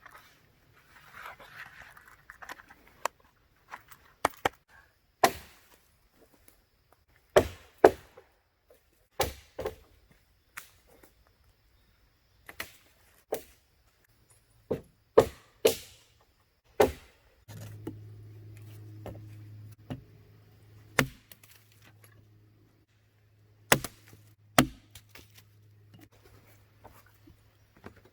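Firewood being chopped: a string of sharp, irregular blade strikes into wood, often in pairs about half a second apart. A low steady hum joins about two-thirds of the way in.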